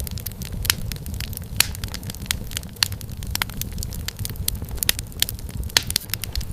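Wood fire crackling and popping in a fireplace: frequent irregular sharp snaps over a steady low rumble of flame.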